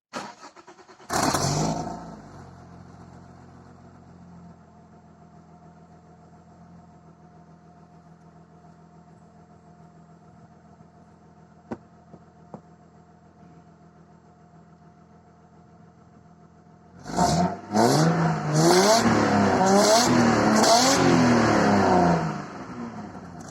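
Audi 100 C4's 2.8-litre AAH V6 engine cranked and catching with a brief rev, then idling steadily through an exhaust whose catalytic converter has been replaced by a straight-through resonator. Later it is revved up and down several times for about five seconds before dropping back to idle near the end.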